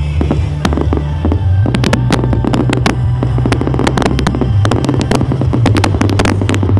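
Fireworks display: many sharp cracks and pops going off in quick succession over a loud, constant deep bass rumble.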